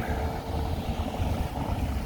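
Wind buffeting the microphone over the low rumble of cars in the street.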